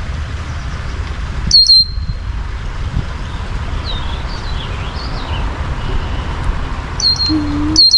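Songbird chirps: a short run of loud, sharp, high chirps about a second and a half in and again near the end, with softer bird calls between, over a steady low background rumble.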